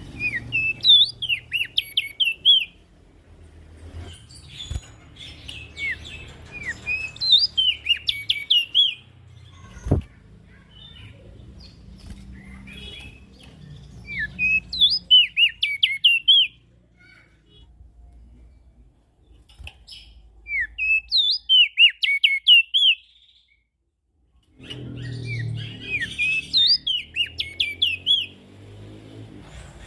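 Prenjak daun song: five bursts of rapid, high, sharply swooping chirps, each lasting two to three seconds with short pauses between them. A faint low hum sits underneath, and there is one brief knock about ten seconds in.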